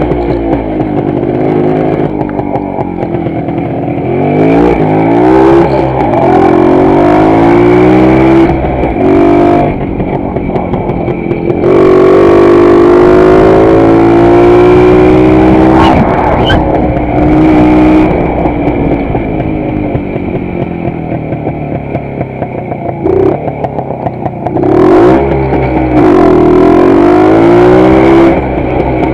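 WSK 125 motorcycle's two-stroke single-cylinder engine under way, its pitch climbing and dropping back again and again as it accelerates and changes gear, with a steadier stretch of running in the middle.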